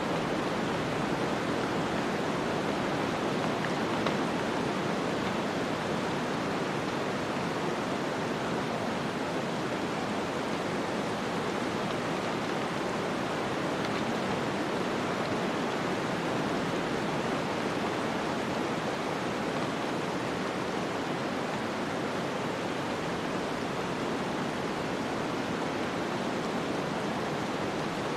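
Snowstorm wind as a steady, even rushing noise, with no gusts or other events.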